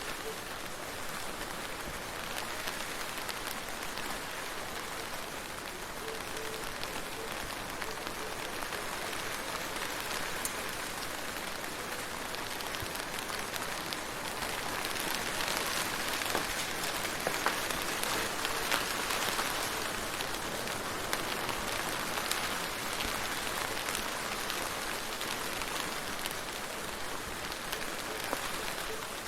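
Steady rain falling, an even hiss of many drops with single drops ticking through it, getting a little heavier about halfway through.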